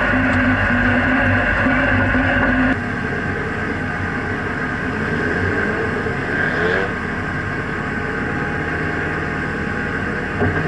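Turbocharged SR20DET four-cylinder engine of a drift-built Nissan 180SX idling, heard from inside the stripped cabin, with a pulsing beat at first. About three seconds in it changes abruptly to a quieter, steadier engine hum, with a brief small rise in pitch near the middle.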